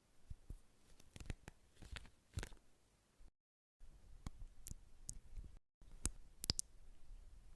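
Quiet ASMR trigger sounds: a string of light, irregular taps and clicks. The sound cuts out completely twice for a moment.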